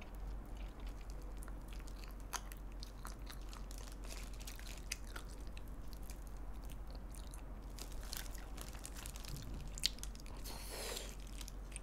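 Close-miked chewing and biting of sauced fried chicken on the bone, with scattered small crunches and sharp clicks.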